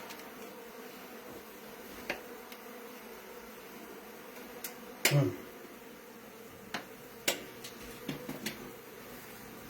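Honeybees buzzing in a steady drone around an exposed hive in a wall, with scattered sharp clicks and knocks from work on the comb.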